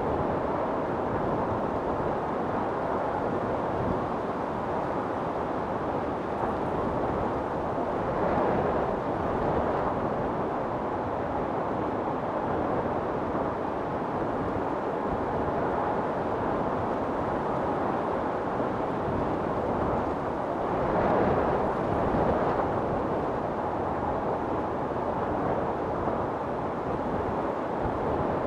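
Storm wind blowing in a steady, dense rush, swelling in two stronger gusts, about eight seconds in and again about twenty-one seconds in.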